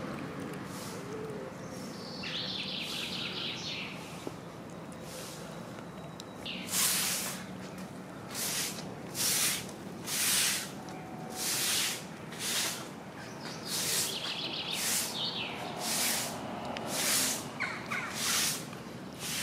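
A small bird twice gives a fast, high chattering trill, over steady outdoor background noise. From about a third of the way in, a regular series of short, harsh hissing bursts comes roughly once a second and is the loudest sound.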